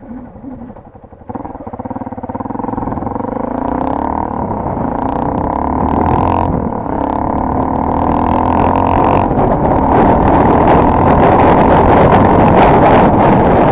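Honda XR150's single-cylinder engine running through a muffler with holes drilled in its end cap, which gives a deeper, throatier exhaust note. It grows steadily louder, with a couple of brief dips along the way.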